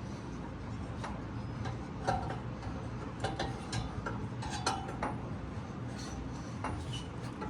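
Scattered sharp metallic clicks and clinks of a hand wrench working on a seized engine, at irregular spacing, over a steady low hum.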